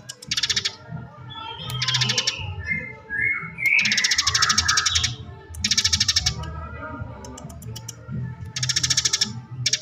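Eurasian tree sparrow giving rapid rolling chatter, five fast rattling trill bursts with a few sweeping chirps between them, over low background music.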